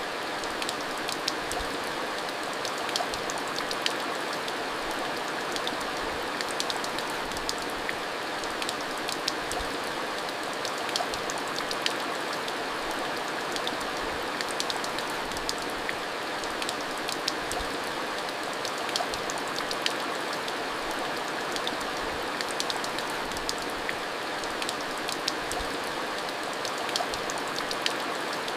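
Steady heavy rain, with a continuous rush and many separate drops ticking sharply on a hard surface.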